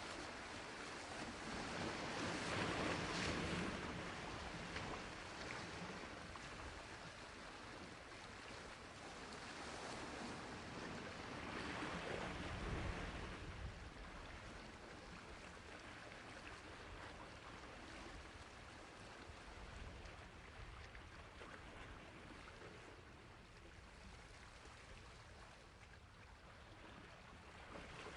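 Sea waves washing onto a shore, a steady hiss of surf with two louder swells, about three seconds in and about twelve seconds in, then a softer continuous wash.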